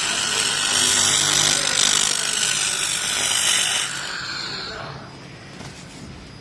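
Handheld fiber laser cleaning head ablating a surface: a loud, steady high hiss that dies away about four seconds in, leaving a quieter background.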